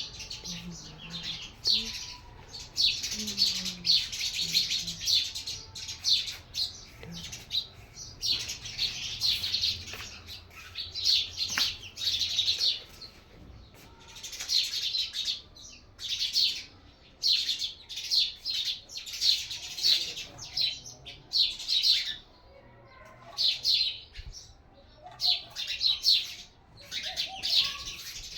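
Small birds chirping and twittering rapidly in bouts of a second to a few seconds, with short pauses between them.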